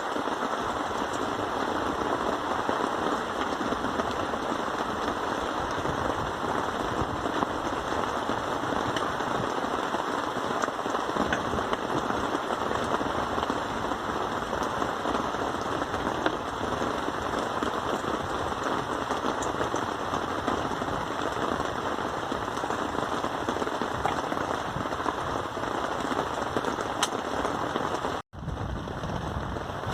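Rain falling steadily, an even hiss of many drops. It cuts out for an instant near the end.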